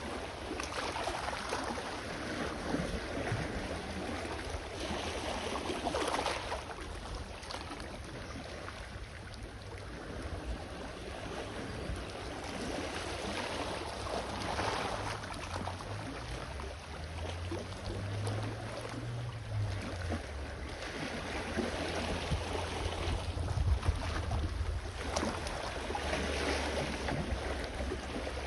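Small sea waves washing onto the shore, swelling every few seconds, with a low rumble of wind on the microphone.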